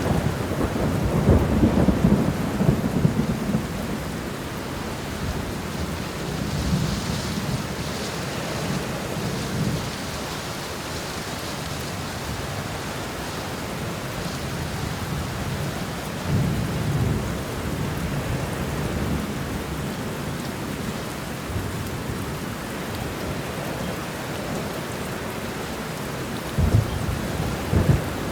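Steady rain with thunder rumbling several times: the loudest roll comes a second or two in, others about a third of the way through and past the middle, and a sharper clap near the end.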